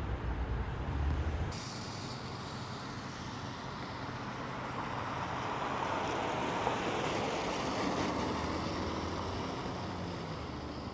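Street traffic noise: a motor vehicle passing, its sound swelling in the middle and fading, with an abrupt change about a second and a half in.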